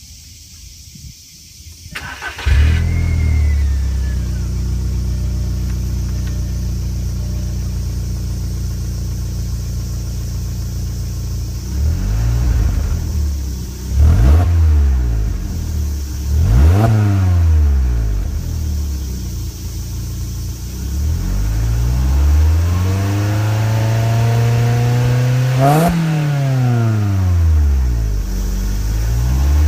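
VW Lupo GTI's 1.6-litre four-cylinder petrol engine through its stock exhaust, starting about two seconds in and settling to a steady idle. From the middle on it is revved: three short blips, then a longer climb to a higher peak near the end, falling back to idle between revs.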